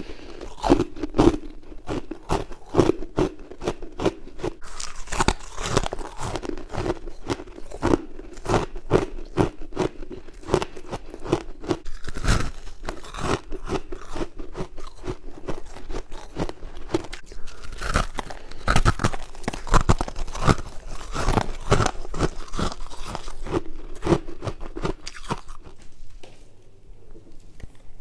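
A person biting and chewing crisp white humidifier frost in the mouth: dense, irregular crunching throughout, easing off about two seconds before the end.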